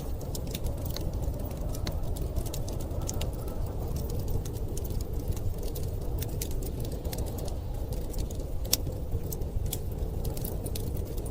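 Wood fire crackling, with frequent sharp irregular pops, over a steady low rumble of storm wind. One pop about three-quarters of the way through is louder than the rest.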